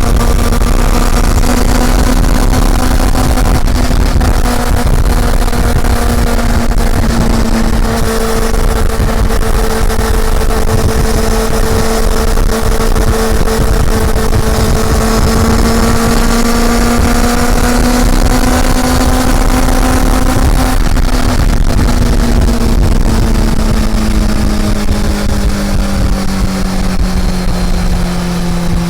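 Honda CB400 Super Four's inline-four engine running at a steady, fairly high pitch under way, then falling in pitch over the last several seconds as the revs drop.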